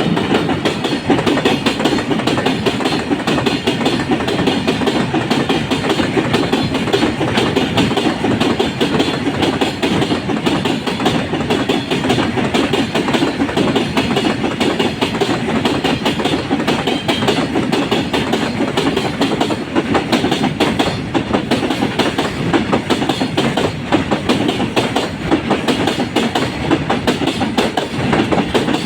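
Freight train wagons rolling past, a steady loud clatter of wheels knocking over rail joints.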